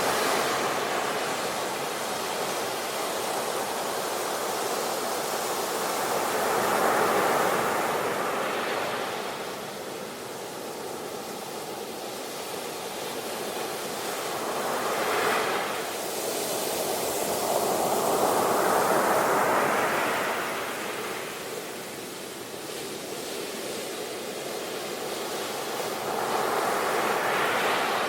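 Sea waves breaking and washing up on the shore, a steady rush that swells and ebbs about four times, with one sharper break about halfway through.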